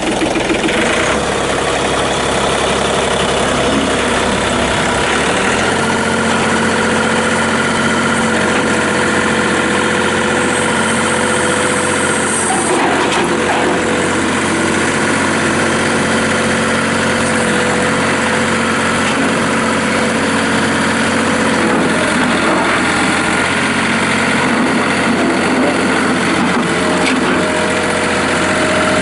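John Deere 3720 compact tractor's diesel engine running steadily just after starting. Its note changes about five and a half seconds in, and there is a brief knock near thirteen seconds.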